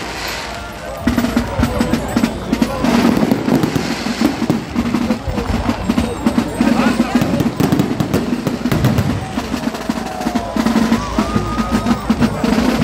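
Fireworks cracking and banging overhead in quick, uneven volleys, over rhythmic band music with drums and the chatter of a crowd.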